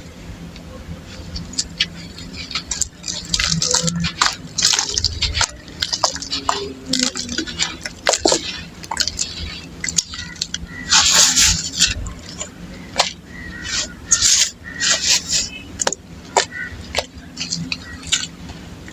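Chunks of dry red dirt being crumbled, an irregular run of crisp crunches and crackles.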